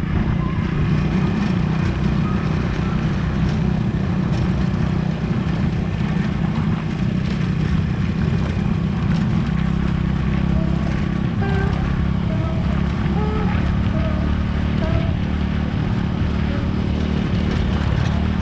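Motorcycle engine running steadily under way, a low continuous drone with wind noise on the microphone.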